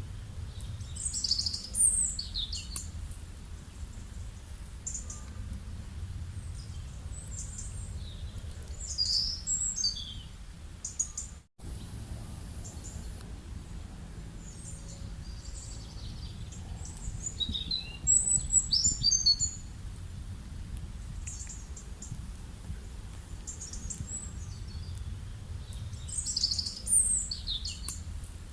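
Birds chirping and calling in short high phrases that come about every eight or nine seconds, over a steady low background rumble. The whole soundscape drops out for an instant near the middle.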